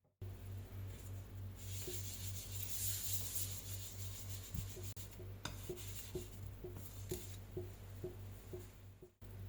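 Kitchen rasping and scraping strokes, settling from about five seconds in into a steady rhythm of two or three strokes a second, over a constant low hum.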